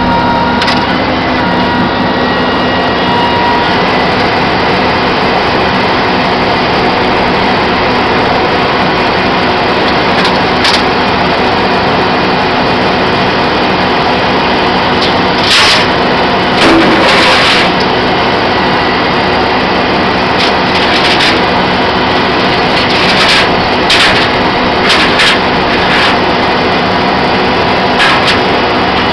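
Flatbed tow truck's diesel engine running steadily, with a few short, louder bursts of noise in the second half.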